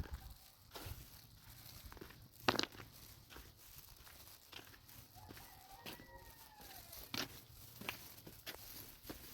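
Faint scattered clicks and rustling, the loudest click about two and a half seconds in, with one short pitched call that rises then falls about six seconds in.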